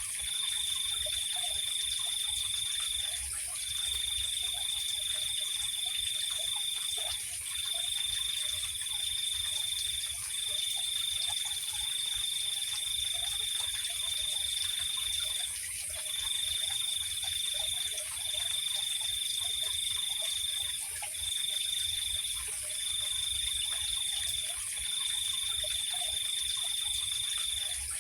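Night insects trilling: one high steady trill comes in long phrases of one to three seconds with short pauses between them, over a continuous even higher-pitched insect chorus.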